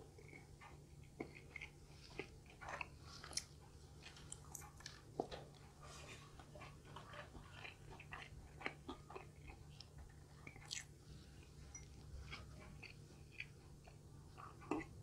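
Faint, close-miked chewing and biting of crispy fried chicken bites: irregular wet mouth clicks and small crunches.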